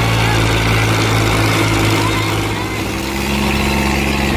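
Diesel tractor engines running steadily under load as two tractors pull against each other in a tug-of-war. The engine note shifts about three seconds in.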